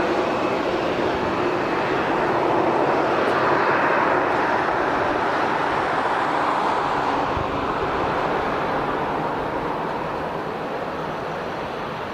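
Jet airliner engines, a steady noise that swells a few seconds in and then fades gradually as the aircraft moves away.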